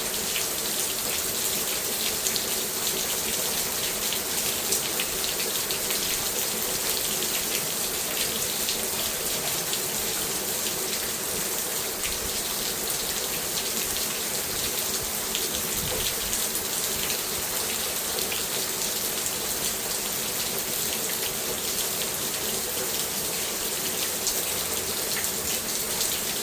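Steady rain falling on a garden, a constant hiss of many small drops pattering on surfaces.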